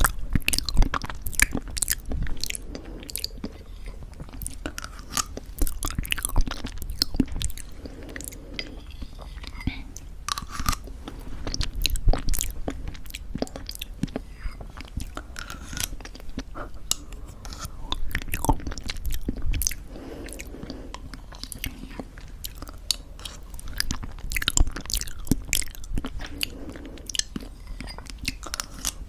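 Close-miked chewing and crunching of granola in thick yogurt, many small crisp crackles mixed with soft wet mouth sounds.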